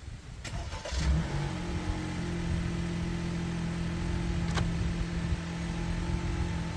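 A car engine starts about a second in and settles into a steady idle, with a sharp click a few seconds later.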